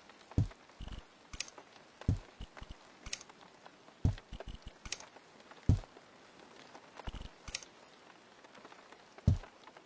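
A run of irregular dull thumps, about six in ten seconds, with light dry crackles and clicks between them.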